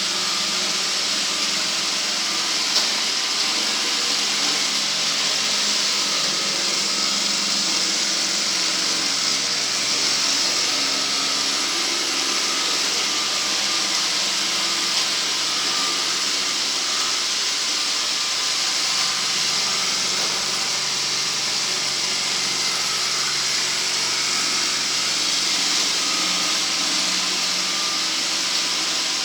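Motorized sweeping machine running steadily, a continuous high hiss of rushing air over a low motor hum.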